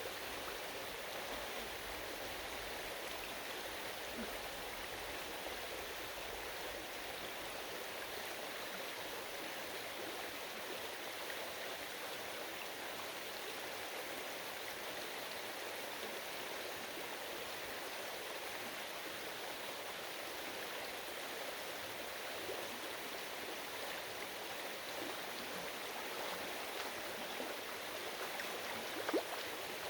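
Stream water running steadily over rocks, an even rushing with a brief sharp sound near the end.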